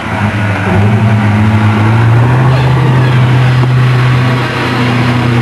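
Car engine running hard at fairly steady high revs, loud and close, easing off a little near the end.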